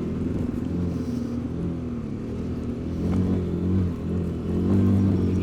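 Kawasaki KLX250 dual-sport bike's single-cylinder four-stroke engine running under way, its note rising and easing with the throttle, louder about three seconds in and again near the end.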